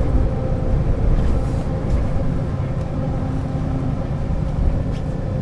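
1996 Setra S 315 UL bus's diesel engine and driveline running, a steady low rumble with a steady whine above it.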